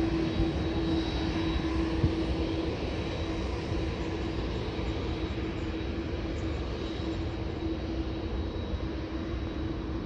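Commercial jet airliner engines: a steady rumble with a steady hum running through it, easing slightly after the first couple of seconds.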